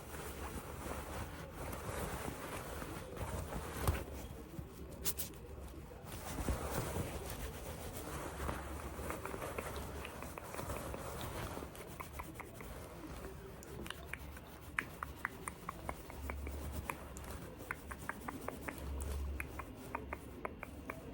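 Handling of small objects: uneven rustling and scratching, then from about ten seconds in a run of quick, light clicking taps, several a second.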